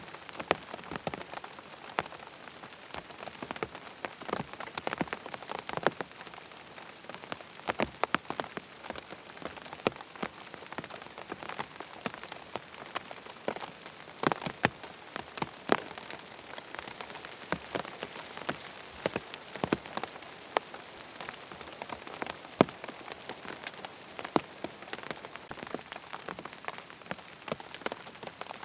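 Steady rain falling on a hard surface, an even hiss dotted with frequent sharp, irregular drips and taps.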